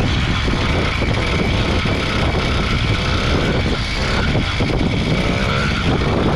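80cc two-stroke motorized-bicycle engine running while riding, with wind rushing over the microphone.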